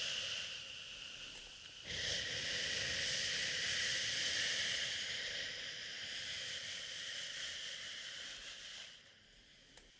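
A person shushing 'shhhh' in long, steady strokes, as used to soothe a crying baby. One shush fades out and a new one starts about two seconds in, holding until it stops near the end.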